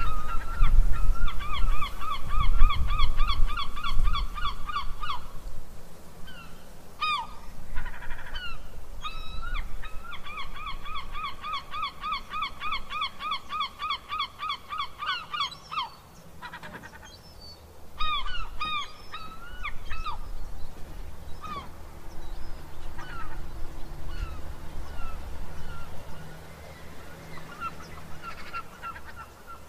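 Birds calling in fast runs of repeated notes, about four a second: one run in the first few seconds and a longer one from about ten to sixteen seconds in, with scattered single calls after. A low rumble sits under the first few seconds.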